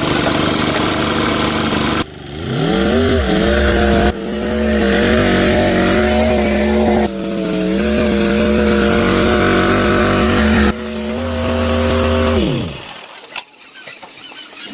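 A harsh, even machine noise, then a tractor engine that rises in pitch as it speeds up and runs steadily through several abrupt cuts. About a second and a half before the end it winds down and stops.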